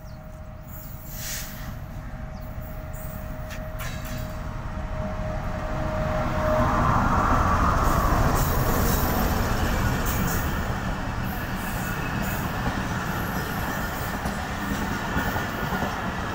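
Pakistan Railways diesel locomotive pulling into the station and passing close by. It grows louder to a peak as the engine goes past, then comes the steady rumble and clatter of the passenger coaches rolling by. A steady whine is heard until about six seconds in.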